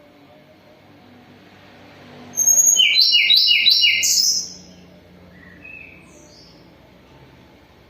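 Tledekan gunung (a flowerpecker) singing: a loud, rapid burst of about four repeated high, falling notes with thin higher whistles, lasting about two seconds, followed by a couple of faint high calls. The bird is molting but still singing well.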